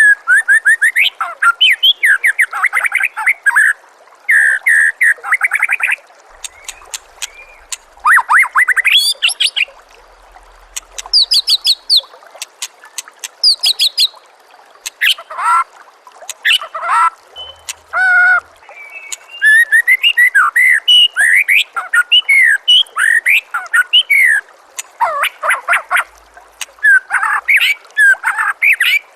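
White-rumped shama (murai batu) singing: a varied run of loud whistled phrases, fast trills and harsh chattering notes, delivered in bursts with short pauses between them.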